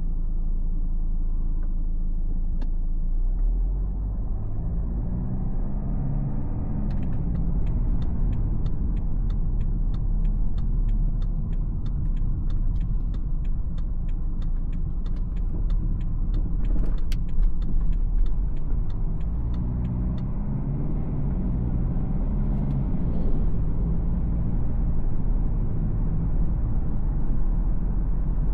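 BMW X4 xDrive20d's four-cylinder turbodiesel and road rumble while driving, the engine note rising and falling twice as the car pulls away and changes gear. Through the middle comes a regular run of light clicks, about three a second.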